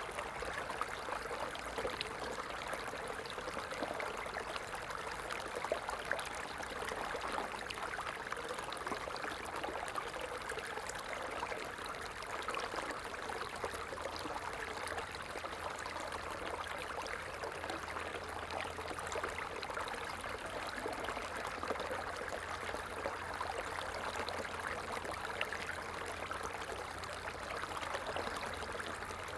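A small stream flowing steadily, water trickling over rocks with a continuous, even rush.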